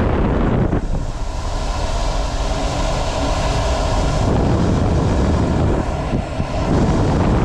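Cold air rushing steadily out of a trailside vent and buffeting the microphone, a loud rumbling rush of wind.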